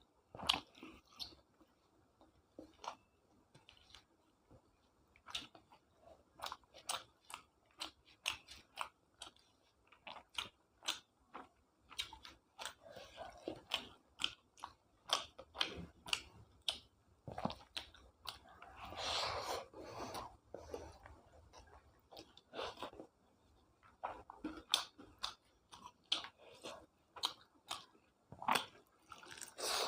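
A person chewing food close to the microphone: a steady run of wet mouth clicks and small crunches, with a longer noisier stretch about two-thirds of the way through.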